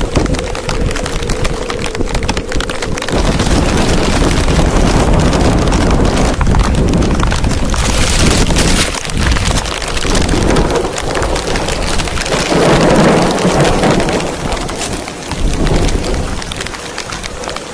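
Heavy rain falling, with gusting wind that swells and eases, the low rumble of the gusts hitting the microphone.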